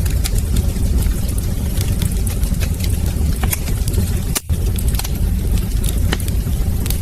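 Wood fire burning in a fireplace: a steady low rumble of flames with frequent sharp crackles and pops from the burning logs. The sound cuts out for a split second about four and a half seconds in.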